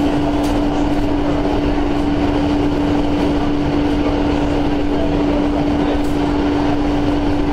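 Cabin noise of a Koleje Mazowieckie electric passenger train running at speed, heard from inside the carriage: a steady rumble of wheels on rail with a constant hum running through it.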